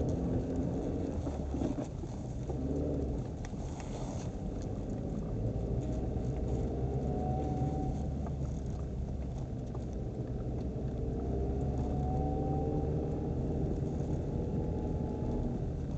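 Nissan Qashqai transmission howl while driving: a thin whine that rises in pitch twice over the car's steady low running rumble.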